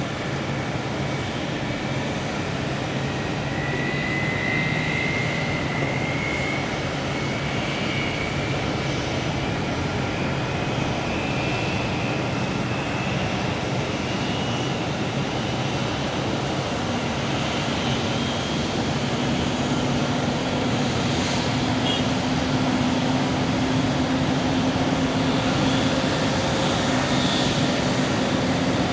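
Pratt & Whitney PW4074 turbofans of a Boeing 777-200 running, a steady jet rush with a whine that climbs slowly in pitch. A lower hum joins about halfway through and the sound grows a little louder.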